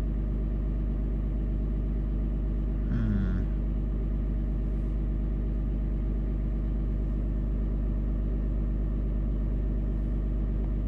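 Dodge Ram pickup's engine idling steadily, with a short falling tone about three seconds in.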